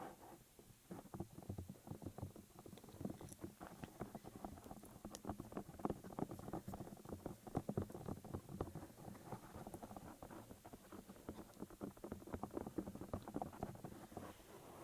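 Rapid, irregular clicking of computer keyboard keys being typed.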